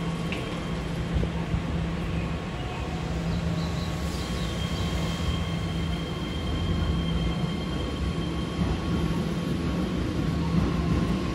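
Keihan 3000 series electric train running into the station and slowing to a stop at the platform, a steady low rumble throughout. A thin high tone sounds for several seconds midway.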